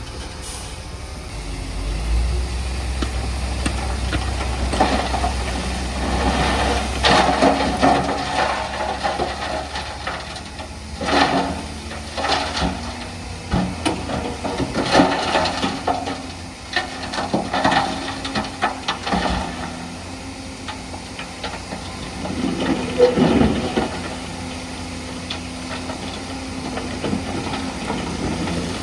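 Heavy diesel earth-moving machinery running: a deep engine drone, with bouts of rattling and clanking through the middle, settling to a steadier engine note near the end.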